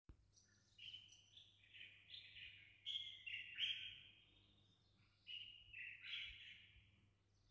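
Birds chirping faintly, in two runs of short high notes, the second beginning about five seconds in.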